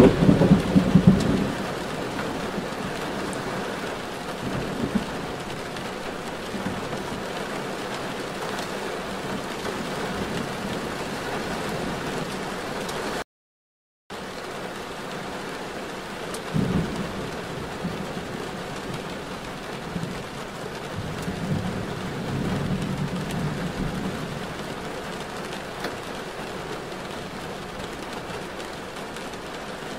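Steady rain, an even hiss, with a few low rumbles now and then; the sound drops out completely for under a second near the middle.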